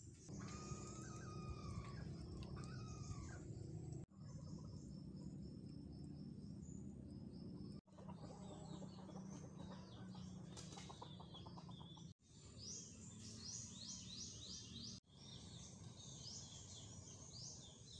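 Faint birdsong: assorted chirps and calls, with quick high chirp series in the later part, over a low steady background. The sound breaks off sharply four times.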